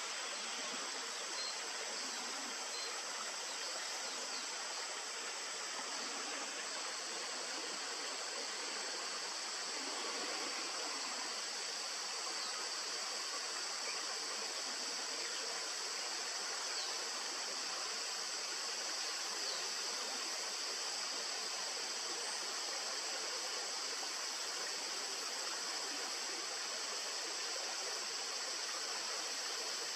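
Steady rush of a flowing stream, with a constant high-pitched hiss above it.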